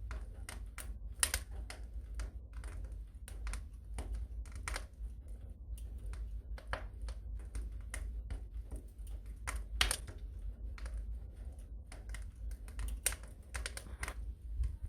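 Wood fire in a fireplace crackling, with irregular sharp pops and snaps, a few louder ones, over a steady low rumble.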